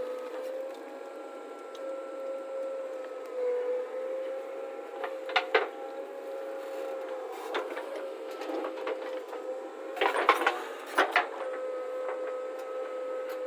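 A machine running with a steady whine that wavers slightly in pitch. It is broken by a few sharp knocks and a short burst of clattering about ten seconds in.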